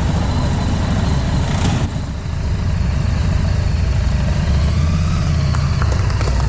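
Harley-Davidson V-twin motorcycle engine idling steadily, the sound dipping and turning duller about two seconds in.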